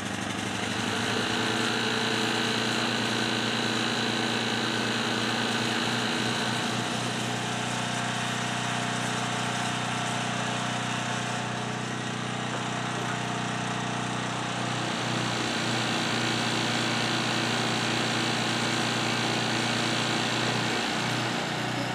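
Small gasoline engine of a portable air compressor running steadily just after starting, its pitch settling slightly a few times, about twelve and fifteen seconds in.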